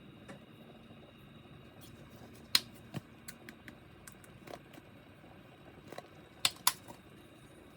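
A series of short, sharp clicks and knocks at irregular intervals: a loud one about two and a half seconds in, another just after, and two close together near the end, over a faint steady hum.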